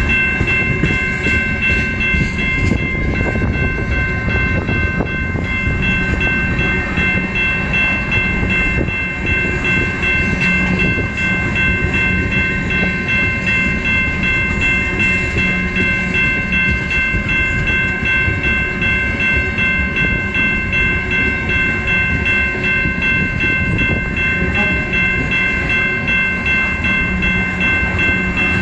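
Freight cars of a Canadian National mixed freight rolling past at close range: a steady rumble of steel wheels on the rails, with a steady high-pitched whine over it.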